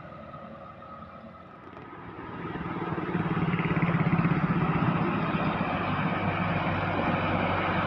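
A road vehicle's engine approaching, growing louder from about two seconds in, then running steadily close by with a low, even pulse.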